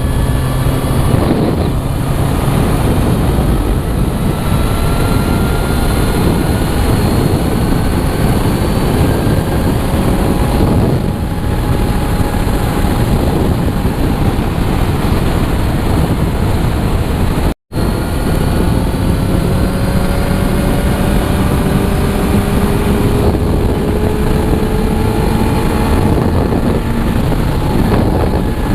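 Motorcycle engine running at highway speed under heavy wind rush on the microphone, its note slowly rising as it pulls. The sound cuts out completely for a moment about two-thirds of the way through.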